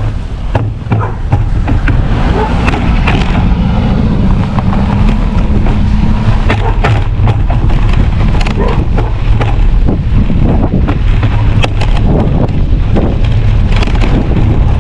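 Wind buffeting the microphone, loud and steady, with a passing motor vehicle's engine drone a few seconds in.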